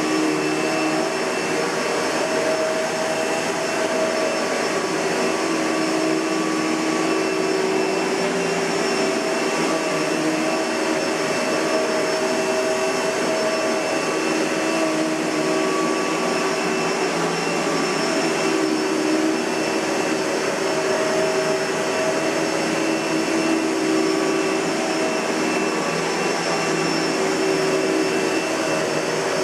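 Kenmore Progressive 116.31069110 bagged upright vacuum cleaner, Panasonic-built, running steadily: a continuous rush of air with a steady motor whine.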